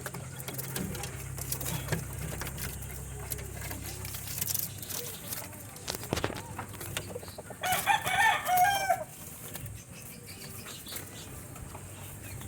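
A rooster crows once, a wavering call of about a second and a half starting about eight seconds in, over scattered faint clicks and knocks.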